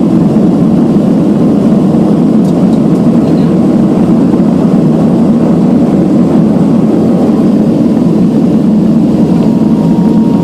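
Steady, loud drone of a turboprop airliner's engines and propellers heard inside the passenger cabin, with a faint steady whine joining near the end.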